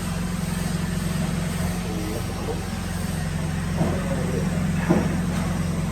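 Steady low hum of a running machine, with two sharp knocks about a second apart near the end.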